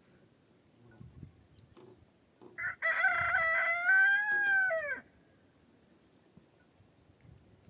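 Rooster crowing once: a single call of about two and a half seconds that falls in pitch at its end.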